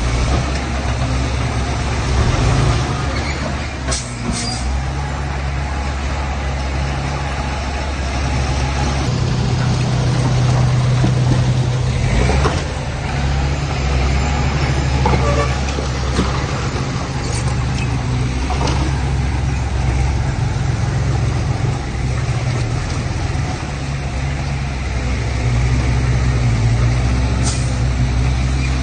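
Heavy diesel machinery running, dump trucks and a bulldozer at work, the low engine note rising and falling in level every few seconds, with a few sharp knocks or clanks and short hisses.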